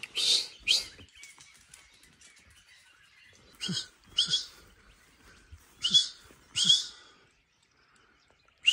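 A bird calling in harsh, short double calls, the pair coming three times about two seconds apart, with a single call at the end.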